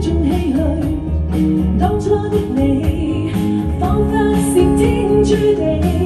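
Live band playing an instrumental passage of a pop ballad: a steady drum beat under bass and a melodic lead line.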